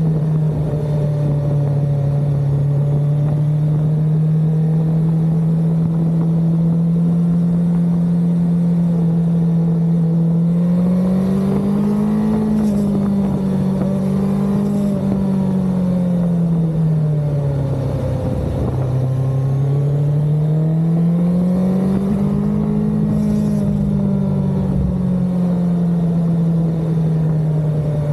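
Suzuki GSX-S1000GX's inline-four engine running at steady revs under way; about ten seconds in the revs rise, drop back, then rise and ease off again.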